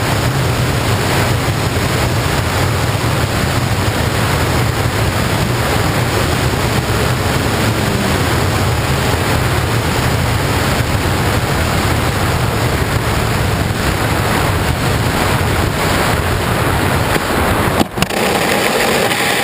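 Steady, loud rush of air buffeting a camera carried by a ZII FPV RC plane in flight, heaviest in the low end, with a brief knock near the end.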